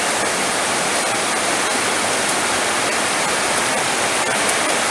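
Heavy rain falling steadily: a dense, even hiss with faint ticks of individual drops.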